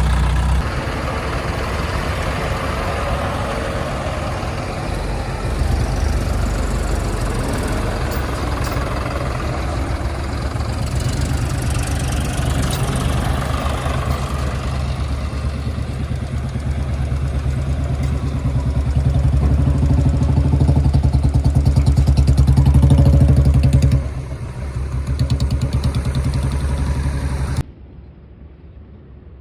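Heavy diesel engine running under varying load, building louder around two-thirds of the way through, then falling away sharply near the end.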